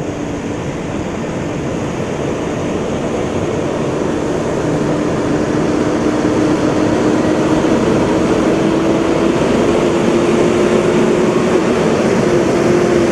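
Heavy truck engine running under load: a steady drone over a rumble that slowly rises in pitch and grows louder, then levels off near the end.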